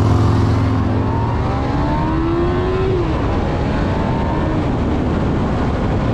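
Motorcycle engine running steadily, then revving with a rising pitch that drops off about three seconds in, followed by steady wind and road noise as it rides.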